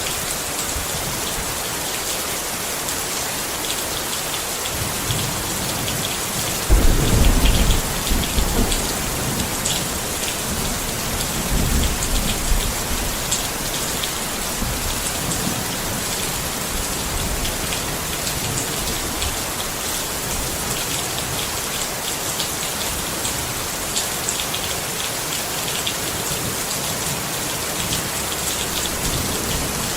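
Steady rain pattering on a tent. Thunder rumbles low about seven seconds in, and a fainter roll follows around twelve seconds.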